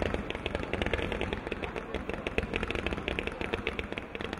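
Fireworks firing in a rapid, unbroken barrage of sharp cracks and pops, many per second.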